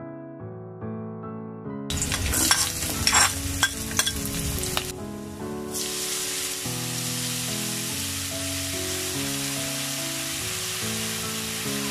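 Sliced wild mushrooms sizzling in hot oil in a steel wok. The sizzle starts about two seconds in with sharp crackles and pops, then settles into a steady sizzle. Background music plays throughout.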